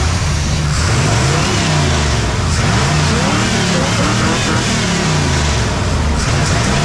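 Swapped-in Chevy small-block V8 running just after it fires up, revved up and down several times in a row.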